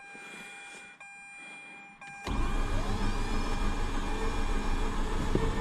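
Starter motor cranking the Mazda RX-8's 13B rotary engine, which turns over steadily but does not fire. It cuts in suddenly about two seconds in, after a quiet stretch with faint steady electronic tones as the ignition is switched on.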